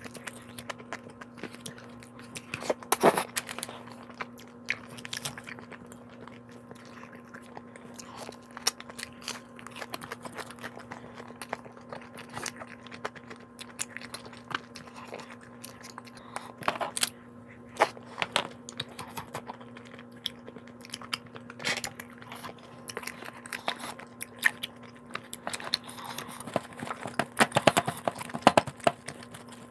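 A person eating close to the microphone: irregular chewing and crunching bites, with clusters of louder crunches about three seconds in and again near the end, over a steady low hum.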